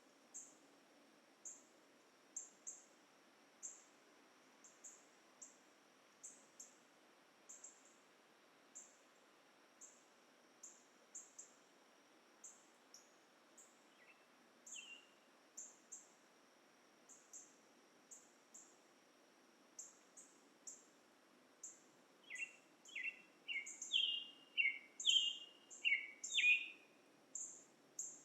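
Dusk forest chorus: a steady high insect drone and short high chirps repeating about once or twice a second. Near the end a bird sings a quick run of falling notes, the loudest sound here.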